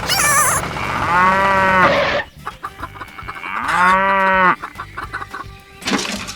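Cow mooing twice: two long calls about two seconds apart, each rising and then falling in pitch. A brief high warbling call comes just before the first moo.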